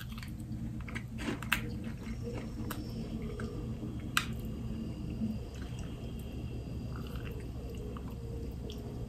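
A person chewing and biting a soft frosted cookie, with a few sharp mouth clicks, over a steady low hum.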